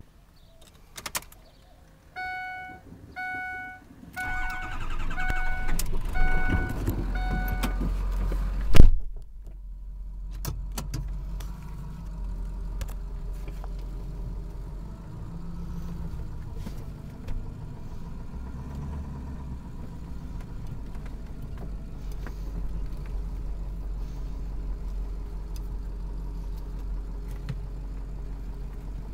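A vehicle's warning chime repeats while a 6.0 Powerstroke V8 turbo-diesel cranks over. The engine catches with one loud sharp burst and then settles into a steady low idle.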